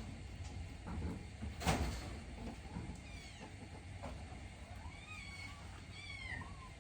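Kittens mewing: a run of thin, high-pitched mews, each falling in pitch, coming several times in the second half. Before them come a few light knocks, the loudest a sharp clack about a second and a half in.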